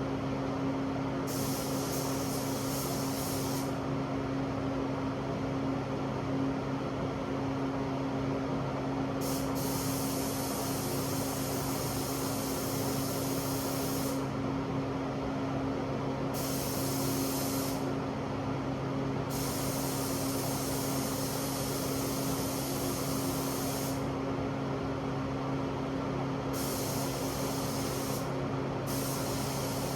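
Air spray gun hissing in repeated bursts of one to five seconds as the trigger is pulled and released, laying a coat of sealer on truck body parts. A steady motor hum runs underneath.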